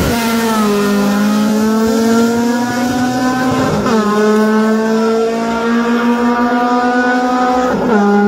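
Honda K-series four-cylinder engines in drag-racing hatchbacks accelerating at full throttle down the strip, the pitch climbing through each gear and dropping sharply at upshifts near the start, about four seconds in and near the end.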